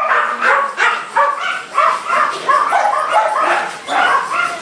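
Capybara calls: a quick run of short, high squeaks, several a second.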